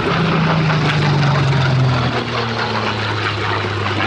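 Piston-engined propeller aircraft flying past, its engine note dropping in pitch over the first two seconds as it goes by, then holding steady at the lower pitch.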